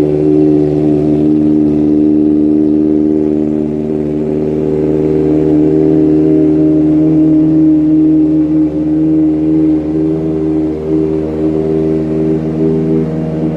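Kawasaki ZX-4RR inline-four, fitted with an Austin Racing exhaust, idling steadily and loud just after a cold start.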